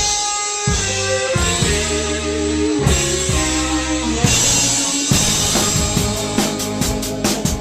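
Rock band playing a Christmas tune, with guitar and a drum kit; the drumming becomes heavier and more rhythmic about five seconds in.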